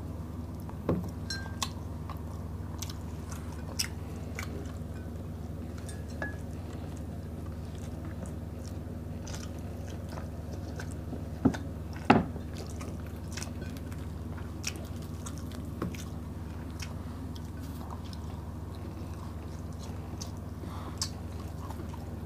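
Close-up eating sounds of people eating smoked fish and rice with their fingers: chewing, lip smacks and small sharp clicks, a few louder ones about a second in and near the middle, over a steady low hum.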